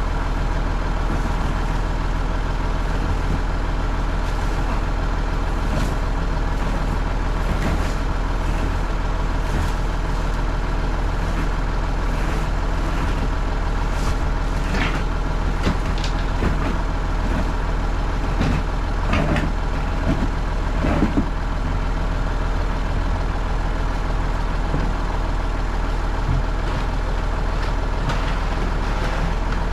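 Massey Ferguson 135 tractor engine running at a steady speed, with a few short knocks and rattles about halfway through.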